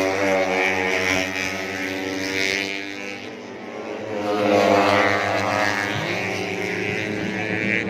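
Four-stroke 150cc underbone racing motorcycles running at high revs, the engine sound dipping about three seconds in and swelling again as bikes come past.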